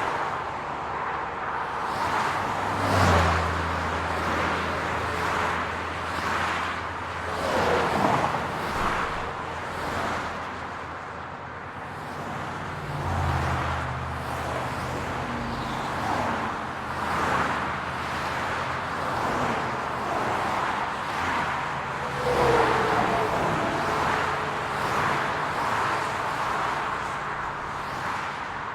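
City street traffic: cars passing one after another, each swelling and fading, over a low steady engine hum.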